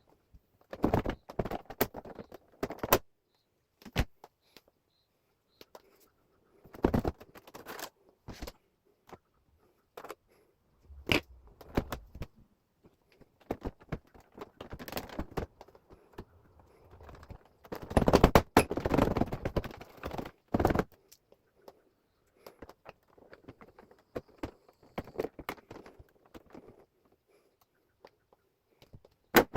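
Irregular clicks, knocks and short scrapes from handling a wall-mounted air conditioner as its parts are taken apart, coming in bursts with quiet gaps between. The busiest stretch is about two thirds of the way in, and a sharp click comes at the very end.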